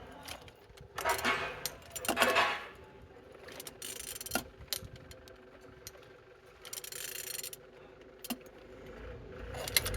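A Z18XER 1.8-litre four-cylinder petrol engine being turned over by hand, giving several short bursts of metallic rubbing and clicking. The engine turns freely rather than being seized.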